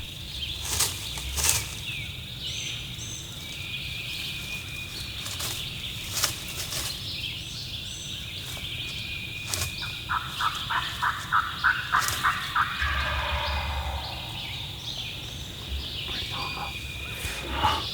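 Eastern wild turkey calling: a rapid run of about ten yelps a little past halfway, running into a rolling gobble, while small songbirds chirp throughout.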